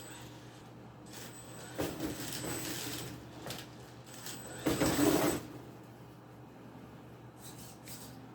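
Brushless electric RC monster truck running in two short bursts of throttle, the second and louder about five seconds in, with a thin high-pitched whine from the motor and gear noise.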